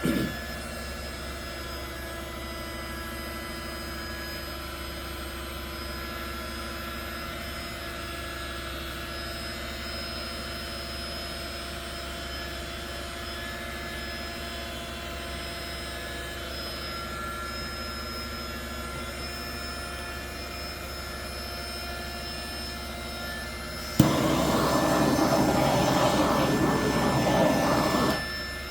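Handheld electric air blower running with a steady whine; about 24 seconds in it clicks up to a louder, rougher rush of air for about four seconds, then cuts off.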